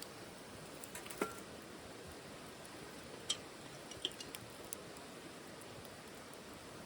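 Wood fire burning in a small titanium wood stove: a faint steady hiss with a handful of sharp, irregular crackles and pops.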